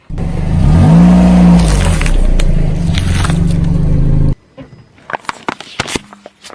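A car engine revs up and falls back, then runs steadily, and cuts off abruptly a little over four seconds in. After it come scattered sharp crackles and snaps of items being crushed under the car.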